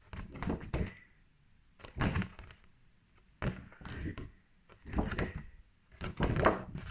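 Short knocks and bumps of objects being handled and set down close to the microphone, in about five separate clusters with quiet gaps between them.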